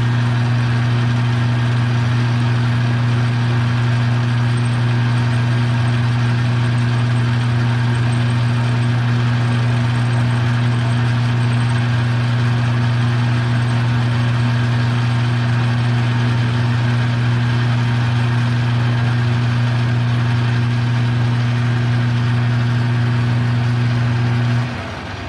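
Metal lathe's electric motor running under power with a loud, steady hum while turning down nuts, shut off about a second before the end and winding down.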